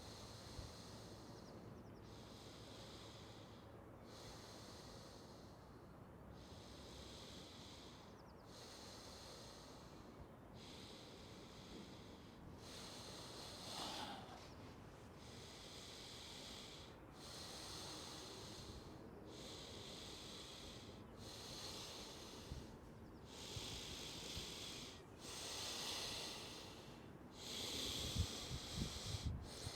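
Deep, rhythmic breathing of a Wim Hof Method breathing round: full breaths in and out, about one every two seconds, getting louder toward the end.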